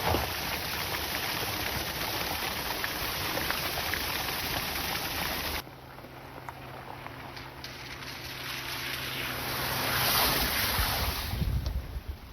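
Heavy rain falling steadily, cutting off abruptly about halfway through to a quieter rush with a low steady hum under it, which swells louder near the end.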